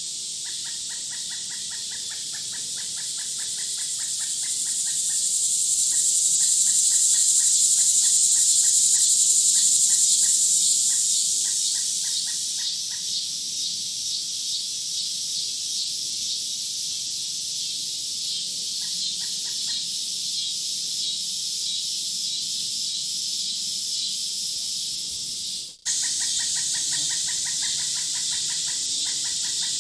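Outdoor nature soundscape: a dense, high insect chorus swells up and fades back over the first half, over rapid, regularly repeated bird-like calls. An abrupt splice about 26 seconds in restarts the calls.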